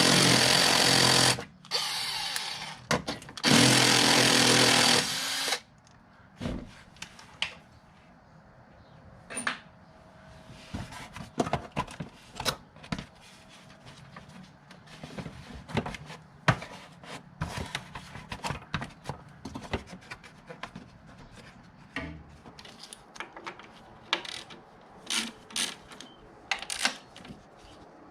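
A handheld power tool runs in loud bursts, stopping and starting under the trigger for about the first five seconds. After that come scattered sharp metallic clicks and clinks of hand tools on metal.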